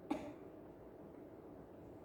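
A single short cough just after the start, then faint room tone.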